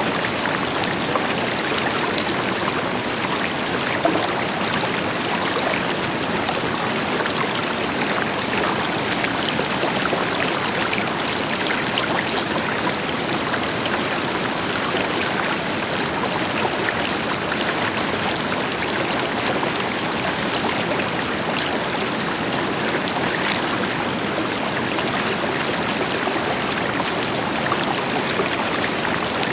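River water flowing and splashing steadily over rocks, with a distant waterfall underneath as a deeper hiss.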